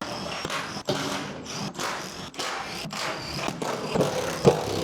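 Power tool running in short bursts, a rattling mechanical run broken by sharp stops, as bolts holding a kei truck's bed are undone.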